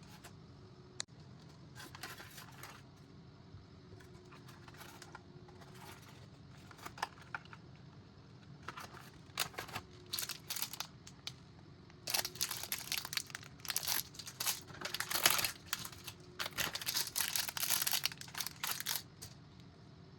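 Plastic packaging of CPU cooler mounting parts being handled, crinkling and rustling in irregular bursts that grow busier and louder in the second half. There is a single sharp click about a second in.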